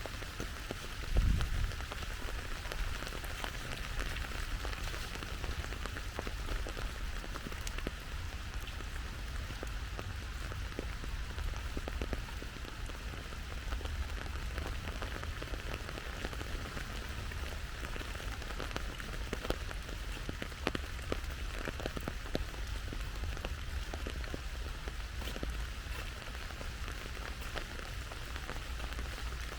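Steady rain falling, with many separate drops ticking close by over a low rumble. A single low thump comes about a second in.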